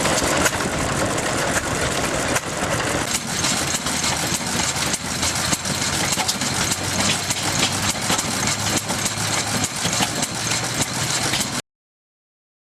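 1940s Horwood Bagshaw Imperial hay baler running, its engine going steadily with a constant irregular clatter and knocking from the machinery; the sound cuts off abruptly near the end.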